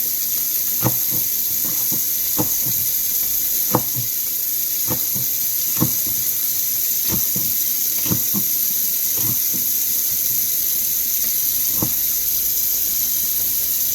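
Steady rush of running tap water, with scattered irregular knocks and clicks of kitchen work, about a dozen over the stretch.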